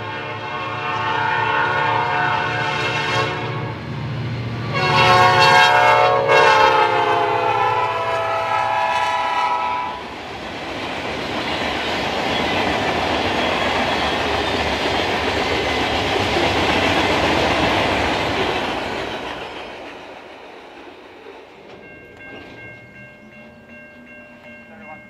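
Freight train's lead diesel locomotives blowing a multi-chime horn in two long blasts over a low engine rumble, then the string of boxcars rolling past with a steady clatter of wheels on rail that fades away about twenty seconds in.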